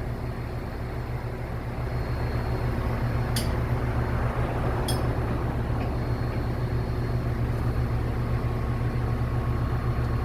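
Scania R500 truck engine running steadily, getting slightly louder about two seconds in, with two short sharp clicks a second and a half apart near the middle.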